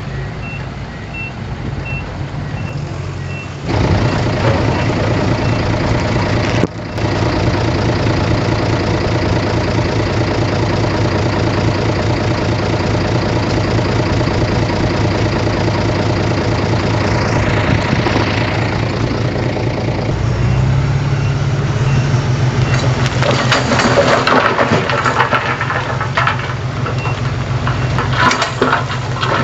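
Heavy diesel earthmoving machinery running steadily while a reversing alarm beeps at an even pace. The engine gets suddenly louder about four seconds in, and clanking and rattling join it for the last several seconds.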